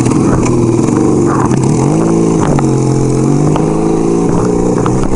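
1975 Kawasaki KZ400's parallel-twin engine running under way; its note dips about two seconds in, then holds steady and rises a little near the end, with the rush of wind over it.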